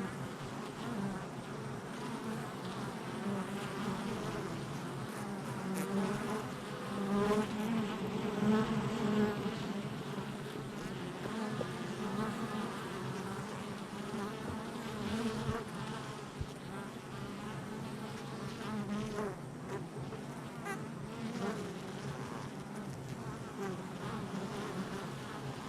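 Many honey bees buzzing at a hive entrance, a dense drone of overlapping wingbeats that wavers as bees come and go. It swells briefly a few seconds in as bees fly close.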